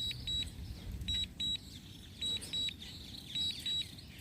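DJI drone controller warning alarm: high double beeps repeating about once a second, the alert for a critically low battery after a forced landing. Faint short chirps sound between the beeps.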